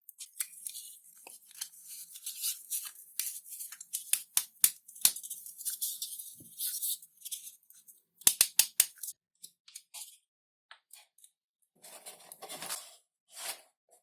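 Thin XPS foam sheet being cut and handled at a workbench: a string of short, crisp snips and scrapes at an irregular pace, a quick run of sharp clicks a little after the middle, and a longer rustle near the end.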